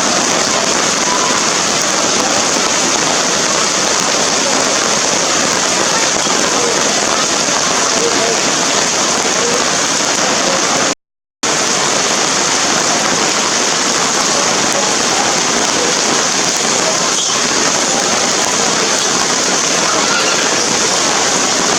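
Heavy rain falling in a steady, dense hiss. The sound drops out completely for a moment about halfway through, then resumes unchanged.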